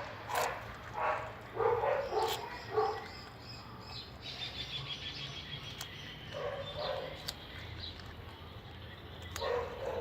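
An animal's short yapping calls, several in quick succession over the first three seconds, then again around seven seconds and near the end, with a fast run of high chirps about four to six seconds in.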